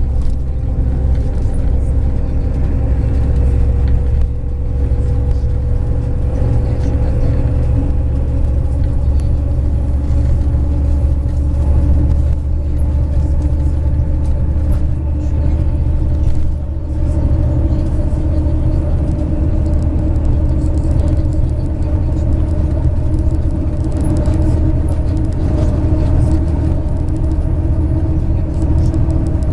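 MAZ 103 city-type bus heard from inside the cabin while driving: a steady heavy engine and road rumble with a humming whine running through it. The sound dips briefly twice, about four seconds in and a little past the middle.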